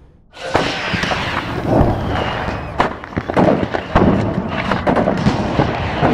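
Dense barrage of bangs and cracks that starts suddenly about half a second in: real recordings of bombs falling on Aleppo, edited to sound like a New Year's Eve fireworks display.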